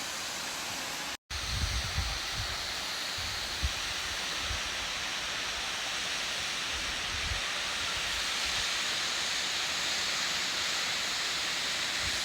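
Steady rush of a waterfall, with low wind buffeting on the microphone during the first few seconds and again around the middle. The sound cuts out for an instant about a second in.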